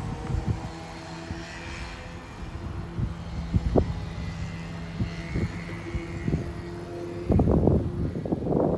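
A distant engine drones at a steady pitch. About seven seconds in, wind starts buffeting the microphone.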